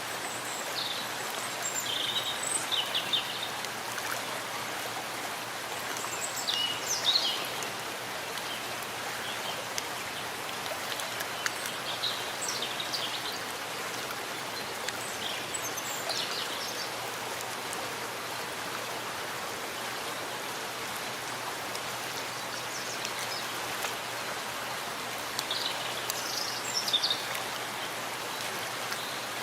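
Steady rain falling in a forest, an even hiss of drops, with short high bird chirps a few times.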